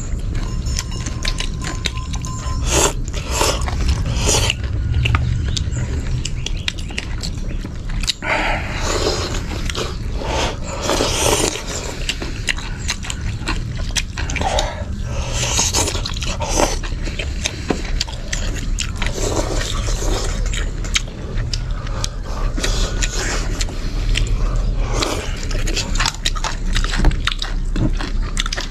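Close-up chewing and biting of crunchy food, with irregular crunches and clicks, over a steady low hum.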